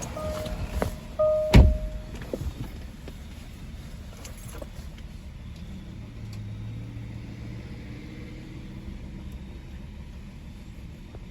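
Sounds of a 2014 Jaguar XJL: a short chime-like tone beeps twice early on, then a loud sharp thump comes about a second and a half in. A low steady hum follows.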